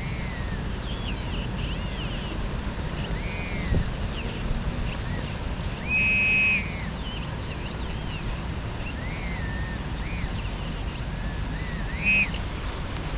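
Metal detector giving short warbling target tones that rise and fall in pitch, with a louder steady beep of about half a second near the middle and a brief one near the end, over a steady rumble of heavy wind on the microphone.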